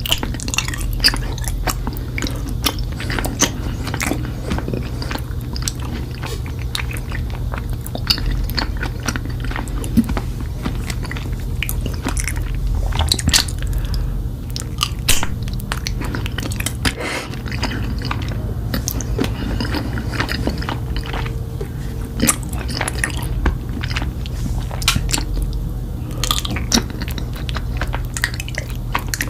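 Close-up biting and chewing of raw honeycomb: the wax crackles and squishes in a dense, irregular run of wet clicks, over a steady low hum.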